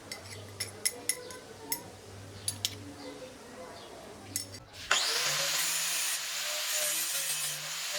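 Scrap metal for a tyre lever being handled, with a series of sharp clicks and taps. About five seconds in there is an abrupt change to a steady abrasive rasping as the metal is shaped and smoothed.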